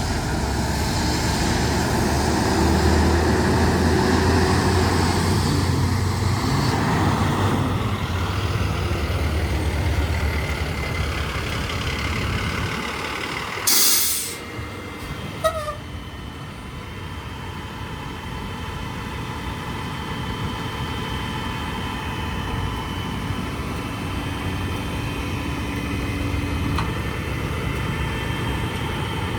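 Hino L7 grapple truck's diesel engine running, strongest for the first several seconds and then settling lower. About halfway through comes a short, loud burst of air hiss from the air brakes, followed a moment later by a couple of clicks.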